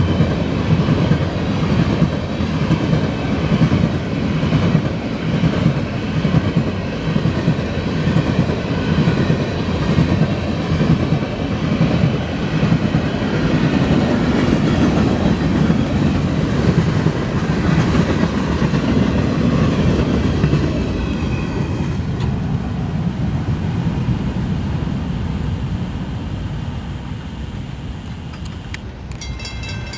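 Florida East Coast Railway freight train's cars rolling past on the rails, loud and steady, then fading over the last several seconds as the train draws away.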